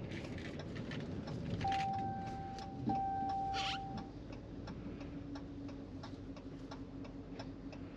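Steady run of light clicking ticks, with a held electronic-sounding tone that sounds for about two seconds, breaks once, then stops about four seconds in, and a steady low hum underneath.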